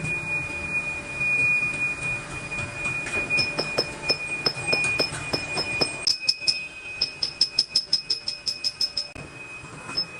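Metalworking machinery in a brake-drum workshop, with a steady high-pitched metallic squeal throughout. From about three seconds in to about nine seconds, a rapid run of sharp, ringing metallic ticks sounds, quickening near the end.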